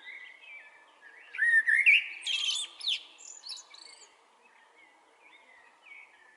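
Blackbird singing: soft whistled phrases, then a loud burst of varied fluty notes and rapid trills from a little after a second in, trailing off into softer phrases.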